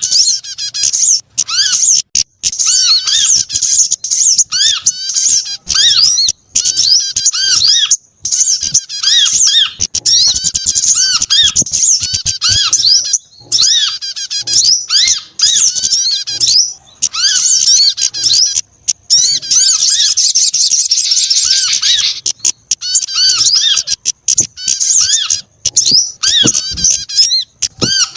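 A bird-luring recording of several small songbirds, sunbirds and prinias among them, calling over one another. It is a dense, excited stream of rapid high chirps and squeaky scolding notes, with a longer unbroken trill a little past two-thirds of the way through.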